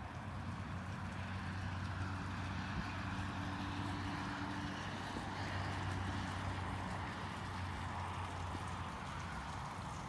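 A motor vehicle's steady low engine hum under a rushing noise that swells towards the middle and eases off near the end.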